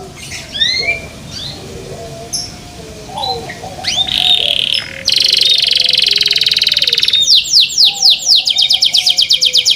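Canary singing: a few soft chirps, then about four seconds in a loud song with a fast buzzing trill, breaking near 7 s into a rapid run of repeated sweeping notes. A fainter, lower whistling runs underneath.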